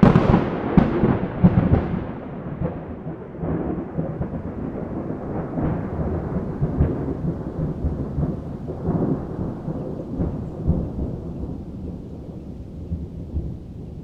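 Thunder: a sudden loud clap right at the start, then a long rolling rumble with crackles that slowly fades away.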